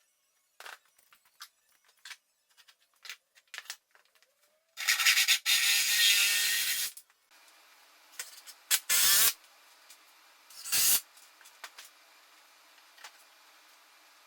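Small clicks and knocks, then a loud hiss lasting about two seconds, followed by two shorter hisses over a faint steady hum.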